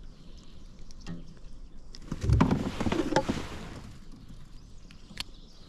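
A burst of knocks and rustling noise on a kayak, starting about two seconds in and lasting a second or so, from a small bass being handled just after it was caught. A single sharp click comes near the end.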